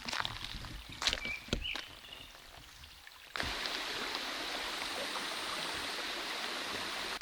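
Scattered rustling and clicks with a few short high chirps, then about a third of the way in a steady rushing of a mountain stream starts abruptly and holds even.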